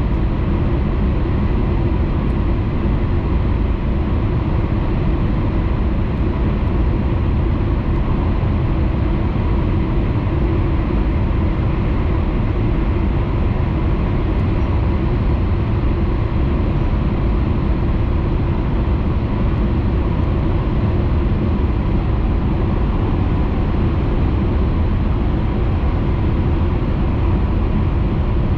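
Steady running noise of a Hayabusa Shinkansen train heard inside the passenger cabin at speed: a constant low rumble with a faint hum.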